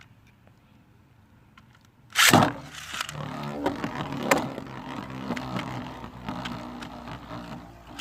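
Beyblades launched about two seconds in with a sharp ripping burst, then spinning and scraping around a plastic stadium with a steady whir and repeated clicking hits.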